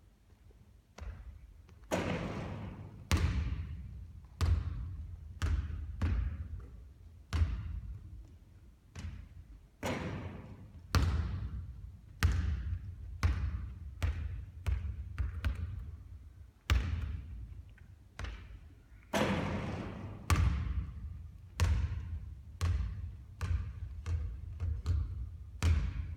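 A basketball repeatedly hitting hard surfaces during three-point shooting practice, with one or two sharp bangs a second at uneven spacing, each followed by an echoing tail.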